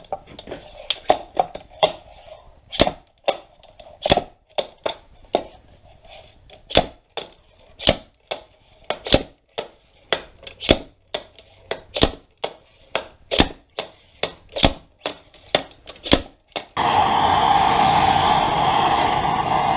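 Slide hammer puller being worked to yank a seized, rusted bearing out of a snowmobile chaincase: a long run of sharp metal clacks, about two to three strikes a second, as the weight hits its stop. Near the end the strikes stop and a loud steady rushing noise starts suddenly.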